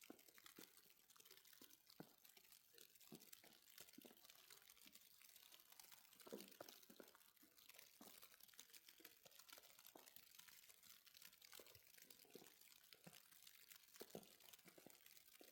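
Near silence: a faint hiss with scattered, irregular soft clicks and crackles.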